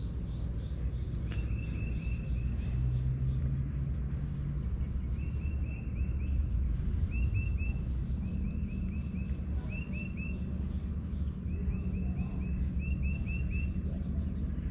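A songbird singing repeated short runs of three to six quick chirping notes, again and again, over a steady low rumble.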